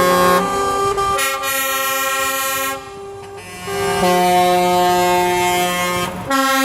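Truck air horns sounding in long held blasts, several tones together as chords, the pitch changing in steps between blasts, with a brief lull about three seconds in.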